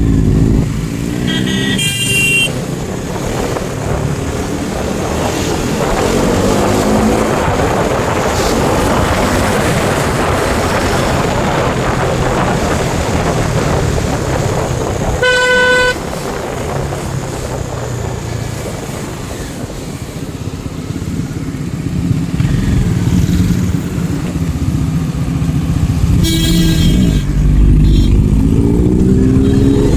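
Motorcycle engines accelerating, their pitch rising in several climbs, including one near the start and one near the end. A horn sounds for about half a second in the middle, and shorter, higher toots come soon after the start and a little before the end.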